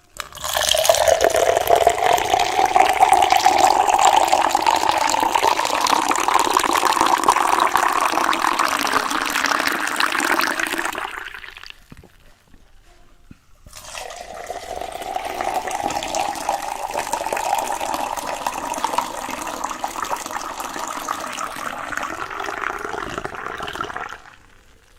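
Water poured into a container in two long pours, each about ten seconds, the splashing tone rising slowly in pitch as the vessel fills.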